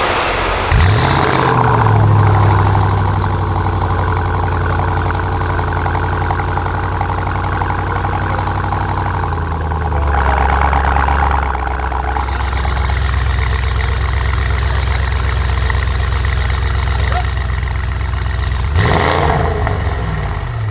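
Audi RS6 Avant C8's twin-turbo V8 through a decat Capristo exhaust. About a second in the engine speed jumps and is held steady. About halfway through it drops to a lower steady speed, and there is a quick rev blip near the end.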